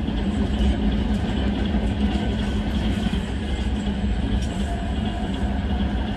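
Freight train hauled by a VL80S electric locomotive running on the rails: a steady rumble with a low hum and scattered light clicks.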